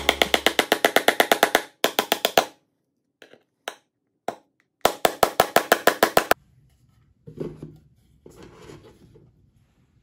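Small hammer tapping nails into a chipboard birdhouse roof: two fast runs of light, evenly spaced strikes, about eight a second, with a pause between them broken by a few single taps. Faint handling rustles follow in the last few seconds.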